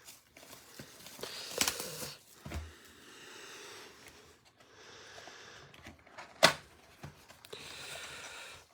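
Handling noises from boxes and packaging: stretches of rustling with scattered clicks and one sharp knock about six and a half seconds in.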